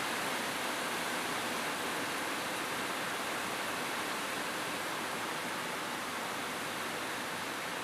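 Rain falling steadily on a roof: an even, unbroken hiss of many drops with no single hits or thunder standing out.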